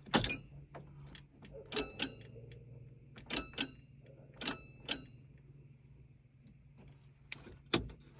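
Relay in a Zap XL electric mini truck clicking sharply as the key is switched on and off, in quick pairs of clicks about five times, over a faint steady low hum. The relay clicks in, which the owner takes as a sign that it is good, though the truck still does not move.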